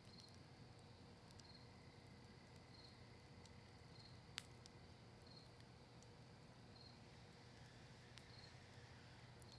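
Faint campfire of maple wood and cedar leaves crackling with a few sparse sharp pops, one louder pop about four seconds in. A cricket chirps steadily in the background, a short high chirp a little more than once a second.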